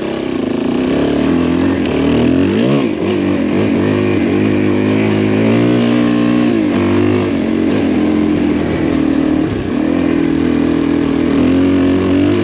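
Adventure motorcycle engine pulling under way, its revs rising and falling with the throttle, over wind and road noise.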